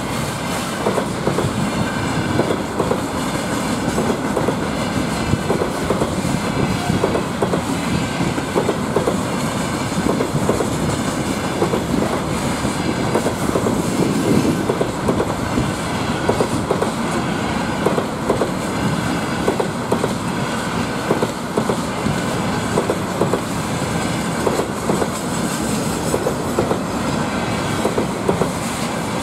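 Container flatcars of a freight train rolling past: a steady rumble of wheels on rail with repeated wheel clacks throughout.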